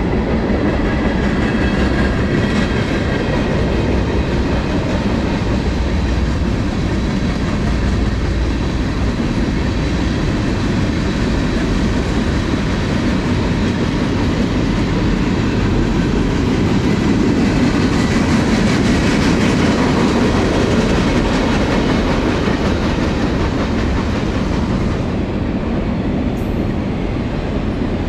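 Cars of a manifest freight train rolling past: a steady rumble of steel wheels on the rails.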